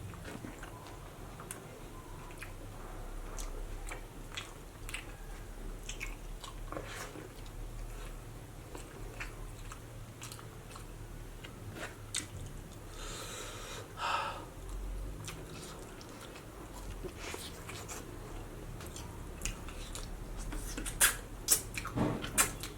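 A person chewing and biting into fatty pork curry and rice, with many small wet mouth clicks throughout and a few louder, sharper bites near the end.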